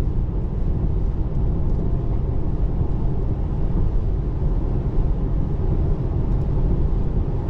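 Steady low road and tyre rumble inside the cabin of a 2024 Tesla Model 3 electric car driving on wet pavement, with no engine note.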